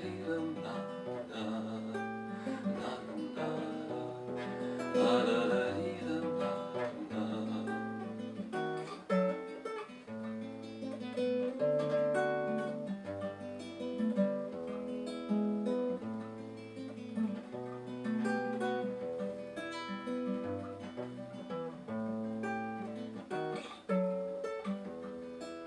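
Acoustic guitar playing an instrumental interlude in a bard song, with plucked and strummed chords over a moving bass line.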